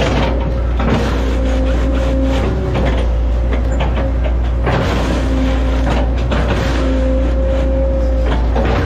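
Hitachi Zaxis 110 excavator's diesel engine running steadily under load with a constant hydraulic whine, broken by scattered short knocks and crunches.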